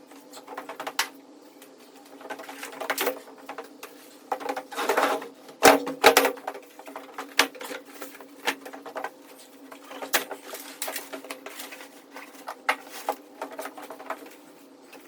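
Handling noises in a small enclosed space: irregular clicks, knocks and rustles, the loudest two knocks about six seconds in, over a steady low hum.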